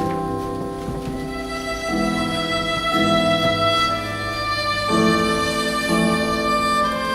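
Music led by a violin playing sustained notes, the chords changing about every second or two.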